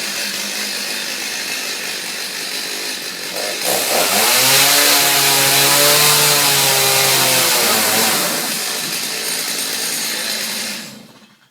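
Chainsaw running, then revving up about four seconds in as it cuts into a piece of cheaply made furniture, its pitch rising and then sagging under load. It drops back to a lower run and cuts off near the end.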